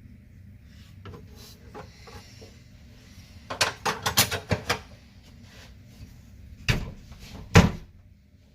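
A quick run of sharp clicks and knocks about three and a half seconds in, then two louder single knocks about a second apart near the end, like hard objects being handled and set down.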